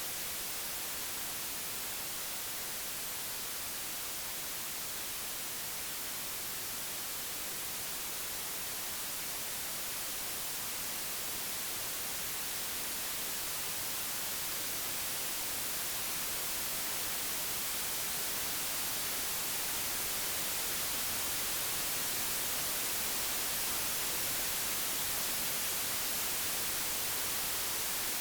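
Computer-generated white noise: a steady, even hiss, brightest in the highs, slowly swelling a little in loudness.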